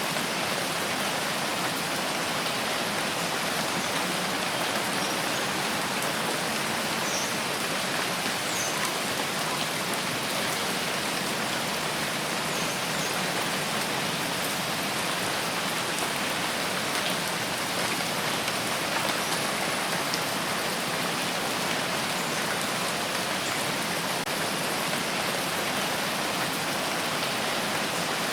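Steady, heavy rain falling: a dense, even hiss of many raindrops that holds at one level throughout.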